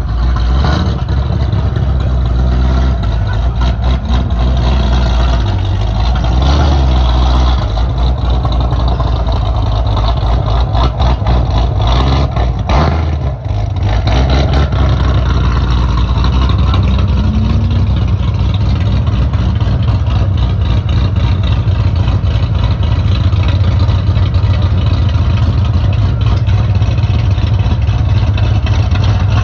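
Chevrolet Corvette C7's 6.2-litre V8 running at low revs while reversing: a loud, steady, deep exhaust rumble, with a short rougher patch about halfway through.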